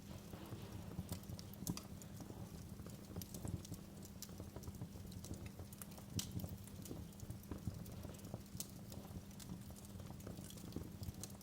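Wood fire in a fireplace crackling, with irregular snaps and pops over a steady low rumble of the burning.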